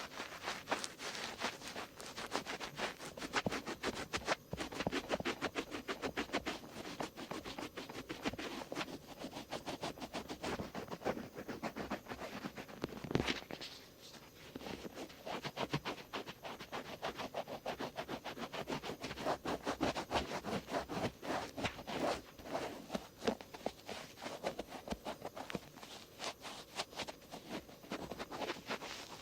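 Cotton swabs rubbing and scratching over the outer ear in quick, continuous strokes, with a short lull about halfway through.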